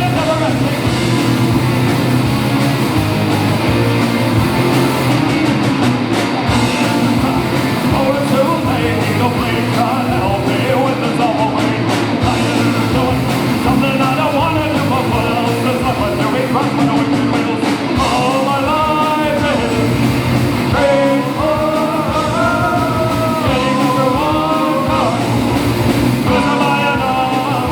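Rock band playing live with a singer, loud and continuous, the sung melody standing out more clearly in the second half.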